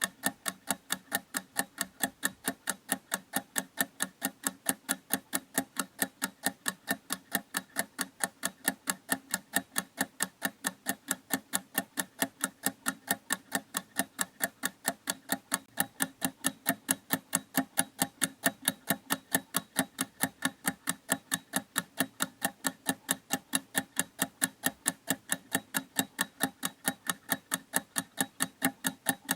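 Mechanical clock ticking in a steady, even rhythm, a few sharp ticks each second, each with a faint ring.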